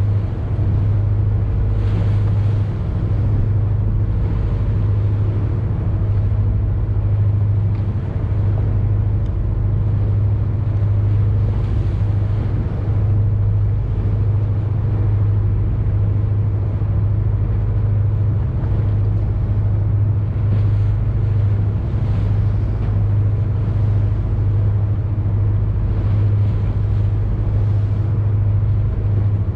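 A boat's engine running steadily, a constant low hum, with an even hiss of wind and water over it.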